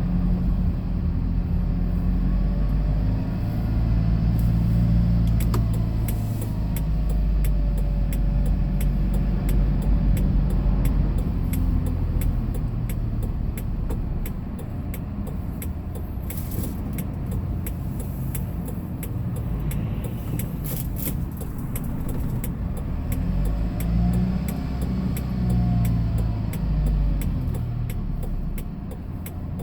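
Hyundai Porter II box truck driving in traffic: steady engine and road rumble, with the engine note rising and falling as it speeds up and slows.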